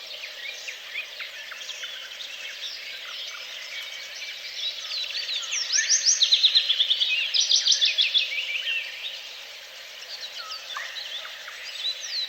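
Several songbirds singing together, a dawn-chorus mix of chirps and whistles, with one bird giving a loud, rapid trill of repeated notes about five to eight seconds in.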